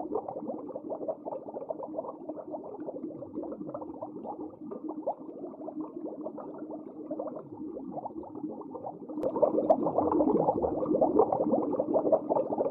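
Underwater ambience: a dense bubbling, crackling wash with a faint steady hum underneath, growing louder about nine seconds in.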